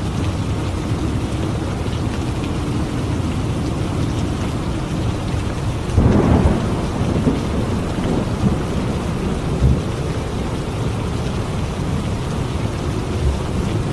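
Steady heavy rain with a clap of thunder about six seconds in that fades into low rumbles, followed by a few fainter thumps.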